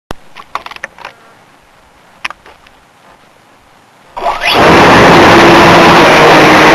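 A few light clicks and knocks, then about four seconds in the Art-Tech RC Cessna 182's brushless electric motor spins up with a rising whine. It then runs loud and steady at high power, propeller and rushing air close to the onboard camera.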